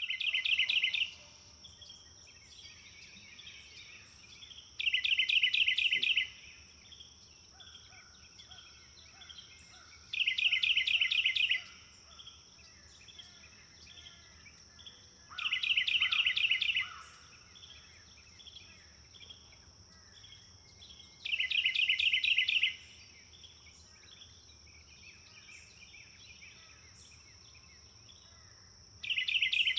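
Forest birdsong: one bird repeats a loud, rapid trill every five or six seconds, each trill lasting just over a second. Softer chirps from other birds fill the gaps over a steady high-pitched whine.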